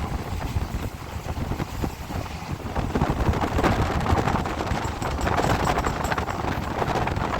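Kochi Intercity express train running at speed: wheels clattering over the rails in quick, uneven knocks over a steady low rumble, with wind rushing past.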